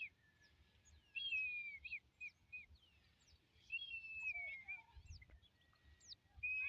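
Songbirds singing: a drawn-out, slightly falling whistled phrase repeats about every two and a half seconds, with short high chirps scattered between the phrases.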